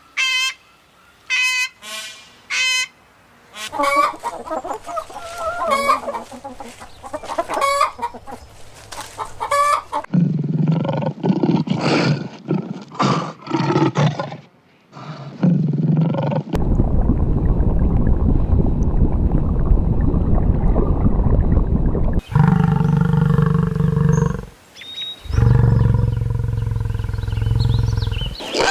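A run of farm animal calls that changes every few seconds: chickens clucking and a rooster crowing among them, with a loud rough stretch about two-thirds of the way through and two long, steady low calls near the end.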